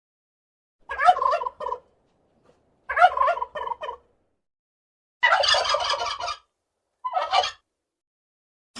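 Domestic turkey gobbling four times, each gobble a quick rattling warble, the last one shorter.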